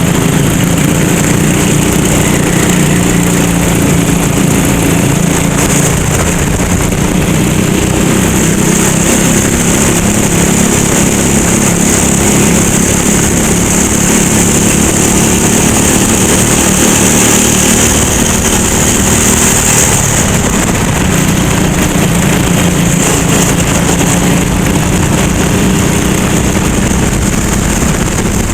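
Kart engine running at fairly steady revs, heard onboard with a steady hiss of wind and road noise over it.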